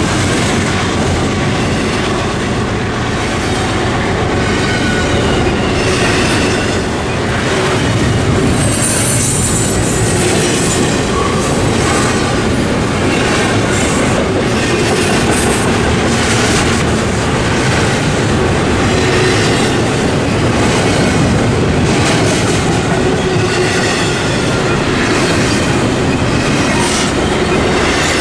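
Double-stack intermodal freight cars rolling past close by: a steady rumble with wheels clattering over the rail joints, and some thin wheel squeal at times.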